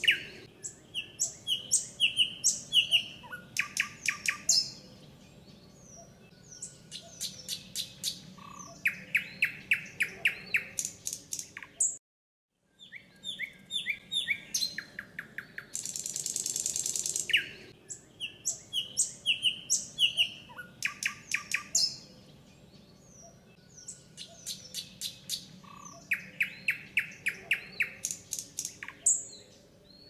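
Songbirds chirping and singing in short, repeated trilled phrases, with a brief total dropout about twelve seconds in.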